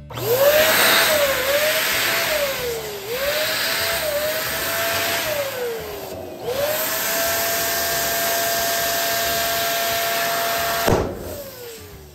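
Electric balloon pump's motor running, its pitch sagging and recovering several times before holding steady for about four seconds. Near the end a sharp snap, then the motor winds down.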